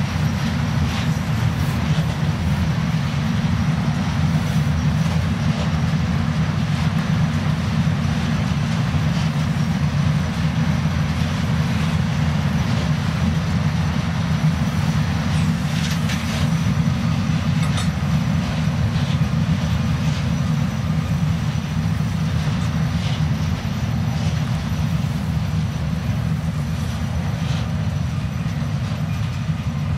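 Freight train of flat wagons carrying tank containers rolling past: a steady rumble of wheels on the rails, with a few faint clicks here and there.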